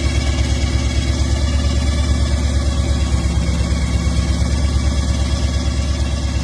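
Hot rod V8 engine idling with an even, lumpy pulsing beat and a deep steady rumble.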